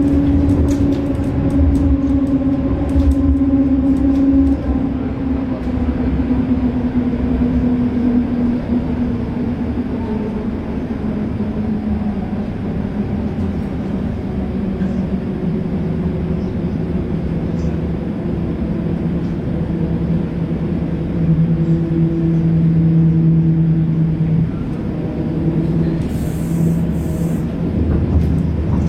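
Tram running along the track with a continuous rumble. A humming tone falls in pitch over roughly the first ten seconds, then holds steady.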